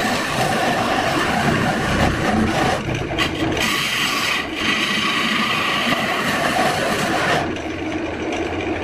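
A tool working wood with a continuous scraping, rasping sound; it softens and loses its hiss about seven and a half seconds in.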